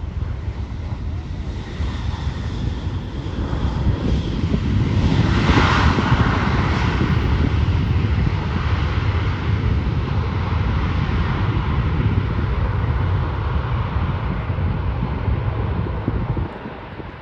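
Jet airliner engines passing close by: a deep rumble with a higher whine that swells to its loudest about five or six seconds in, then slowly eases off and drops away near the end.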